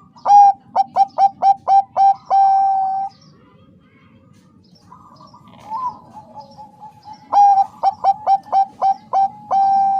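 Perkutut bangkok (zebra dove) cooing: two loud call phrases, each a quick run of short clipped notes ending in one longer held note, with a softer call between them.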